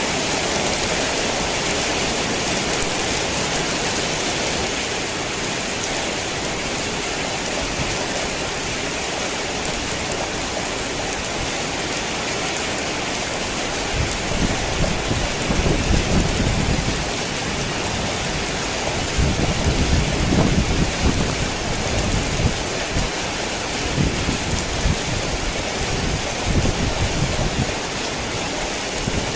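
Heavy rain falling steadily as a dense, even hiss. About halfway through, low rolling rumbles of thunder swell up under the rain, loudest in two spells a few seconds apart, with smaller rumbles after.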